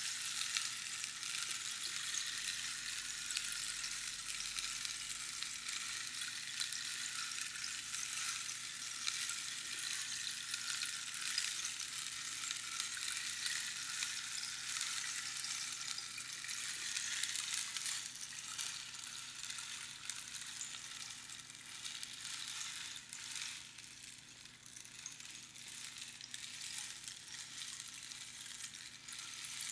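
Rainstick being played: its fill trickles down through the tube past the pins inside, making a dense, steady pattering hiss like falling rain. It eases off a little about two-thirds through and builds again near the end.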